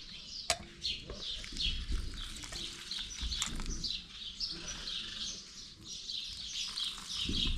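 Small birds chirping continuously in many short, quick chirps, with a single sharp click about half a second in.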